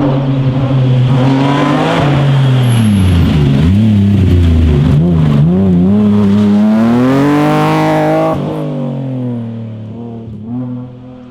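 Rally car engine under hard driving: the revs drop, waver up and down through a corner with a few sharp cracks, then climb steadily as the car accelerates away, fading over the last few seconds.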